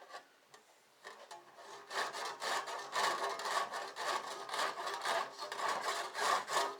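Hand saw cutting through the end of a garage door in quick, steady back-and-forth strokes, starting about a second in and building up to a regular rhythm.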